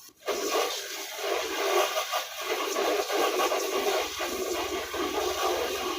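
Water gushing in a steady stream, starting abruptly, as from a tap or hose running.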